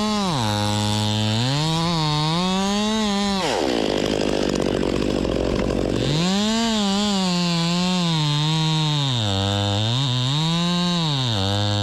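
Husqvarna T542i XP battery top-handle chainsaw, its electric motor revving up and down on the trigger. From about three and a half seconds in to about six seconds in, the sound turns rough and noisy as the chain cuts into wood.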